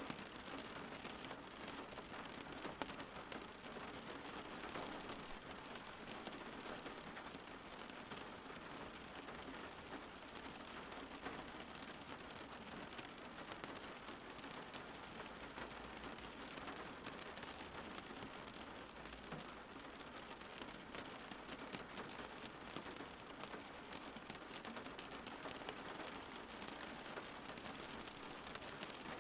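Steady rain falling on a surface, an even hiss that keeps on without a break.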